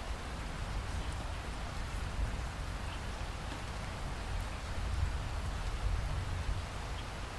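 Steady rain: an even hiss with scattered drop ticks over a low rumble that swells a little about five seconds in.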